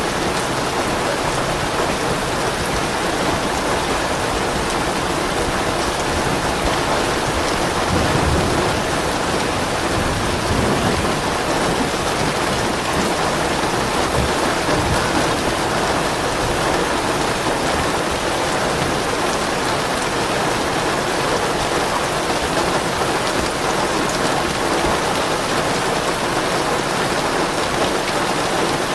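Steady rain falling on a surface. Soft thunder rumbles low a couple of times about a third of the way through.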